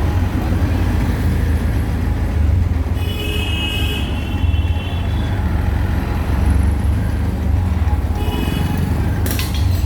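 Auto-rickshaw ride through traffic: a steady low engine and road rumble, with a vehicle horn honking for about a second around three seconds in and again, more briefly, near the end.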